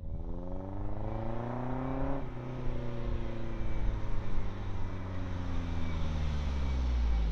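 1989 Nissan 240SX driving up under power: the engine note rises as it accelerates, drops suddenly at a gear change about two seconds in, then runs on more evenly. A low rumble grows toward the end as the car draws near.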